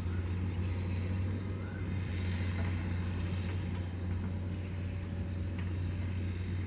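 Heavy diesel engine running with a steady low drone, holding an even speed without revving.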